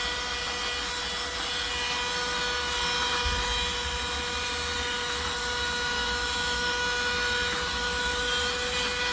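Small motor of a cordless handheld mini car vacuum running steadily, a high even whine over an airy hiss.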